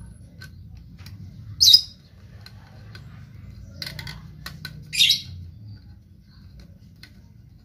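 A bird squawks twice, short high-pitched calls about three seconds apart, with a few faint clicks between them.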